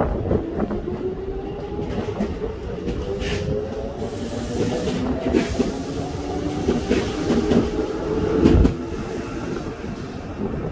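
Keikyu 1500-series train with field-chopper control pulling out along the platform: its traction motors hum in a slowly rising pitch as it accelerates, over wheels clacking on the rails. A heavy thump comes about eight and a half seconds in.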